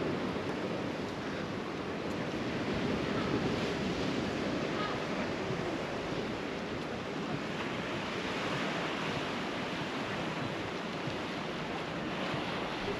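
Sea waves washing onto the shore: a steady rush that swells and eases.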